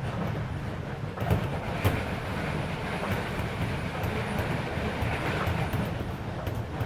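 Cabin running noise of a Keisei 3400 series electric train car at speed: a steady rumble of wheels on rail, with a couple of sharp clicks from the wheels about a second in. The car's air conditioning runs underneath.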